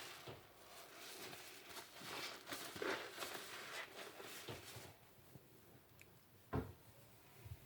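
Wet car sponge squishing and scrubbing with crackly, soapy sounds for about five seconds, then quieter; a single sharp thump about six and a half seconds in.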